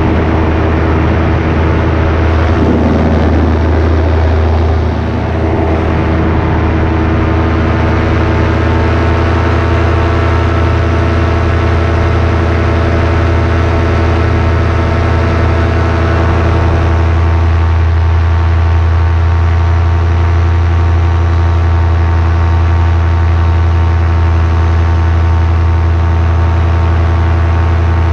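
Paramotor engine and propeller running steadily in flight, a constant loud drone with a strong low hum. The level dips briefly about five seconds in.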